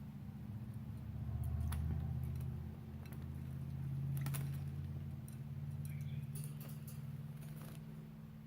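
Budgie bathing in a shallow water bowl: scattered light splashes and clicks, with a faint short chirp about six seconds in, over a steady low hum.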